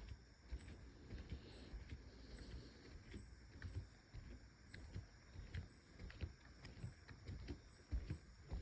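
Footsteps of someone walking along a trail, a soft irregular thud about once or twice a second. Behind them, a faint high chirp repeats steadily, less than a second apart.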